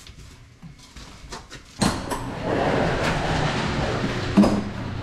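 A sudden loud knock about two seconds in, followed by a steady rushing noise with another sharp knock near the end.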